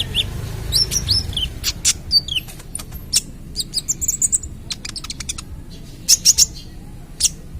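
Young kolibri ninja sunbird singing: a busy string of sharp, high chirps and quick rising and falling whistles, irregular throughout.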